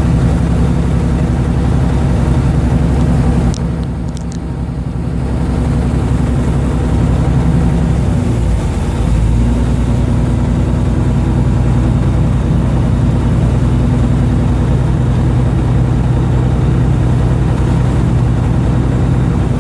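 A fishing boat's engine running steadily. It eases off briefly with a few clicks about four seconds in, and its note changes around nine seconds in before settling again.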